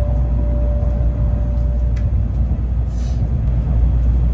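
Steady low rumble of a Shinkansen Kodama train pulling out, heard inside the passenger car. The last note of the onboard chime melody lingers and fades in the first two seconds, and there is a brief hiss about three seconds in.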